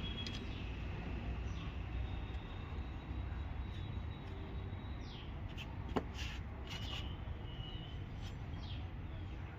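Quiet background: a steady low hum with several short, falling bird chirps scattered through it, and a single sharp click about six seconds in.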